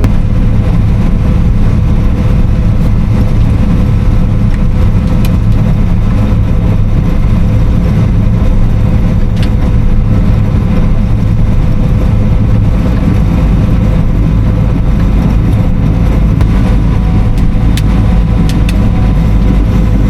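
John Deere combine harvester running steadily while harvesting: a loud, even low drone with a constant hum over it and a few faint clicks.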